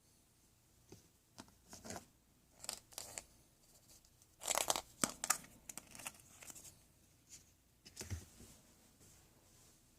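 Crinkling and tearing noises in irregular short spurts, loudest about halfway through.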